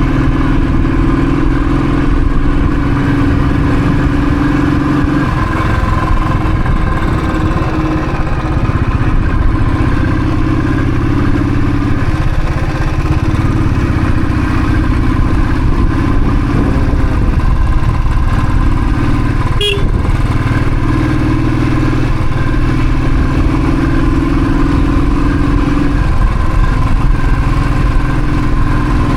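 Royal Enfield Thunderbird's single-cylinder engine running steadily while riding, its pitch shifting every few seconds as speed and gear change, with one sharp click about two-thirds of the way through.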